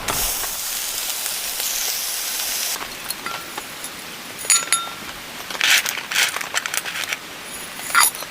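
A steady hiss cuts off sharply about three seconds in, then several sharp metallic clinks and scrapes of utensils on cookware, over a softer patter of rain.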